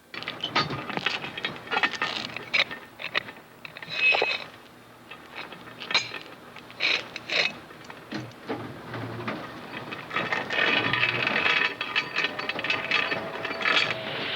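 Irregular metallic clanks, clicks and knocks of machinery at work, denser and clattering for a couple of seconds near the end.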